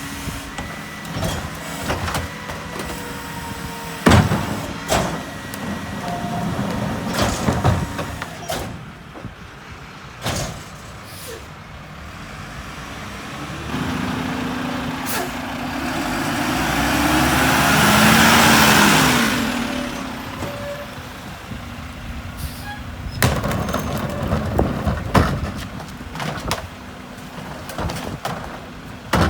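Mack MRU rear-loader garbage truck working its route: the diesel engine runs steadily under a scatter of sharp knocks and bangs. About halfway through, a vehicle passes, growing louder and then fading.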